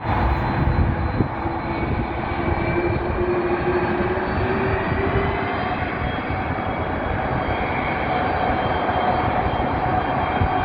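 Airbus A330-300 jet engines at taxi power: a steady rumble with faint whining tones, one of which rises slowly during the first half.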